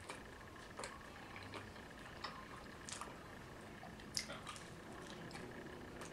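Mouth sounds of eating: wet chewing and lip smacks, scattered, with the sharpest smack about four seconds in.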